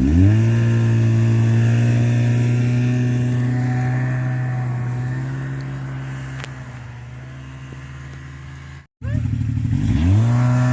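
Snowmobile engine revving up and then running at a steady speed, growing gradually fainter. After a brief dropout near the end, it revs up again and holds steady.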